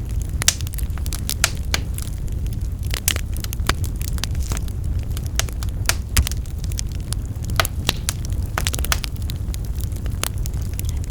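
Wood fire burning in a fireplace: a steady low rumble of flames under frequent, irregular crackles and sharp pops from the burning logs.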